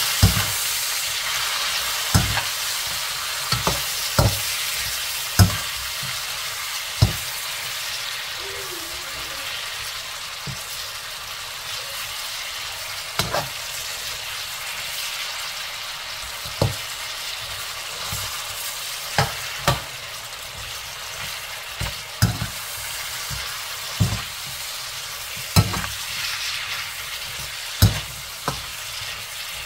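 Spice-coated lamb pieces sizzling in hot oil in a wok, with a steady hiss that eases slightly. A perforated metal skimmer stirs them and knocks and scrapes against the wok at irregular moments, every one to three seconds.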